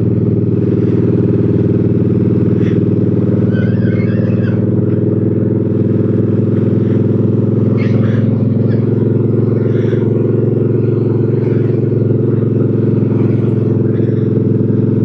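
Motorcycle engine running at a steady cruise, a constant low drone that holds the same pitch throughout.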